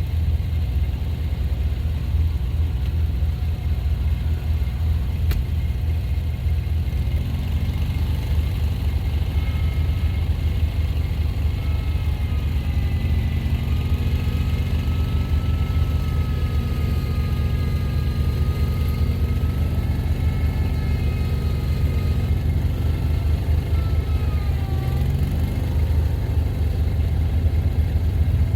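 A gasoline vehicle engine runs steadily while plowing snow. Over much of the middle, a faint whine rises and falls slightly in pitch above the engine.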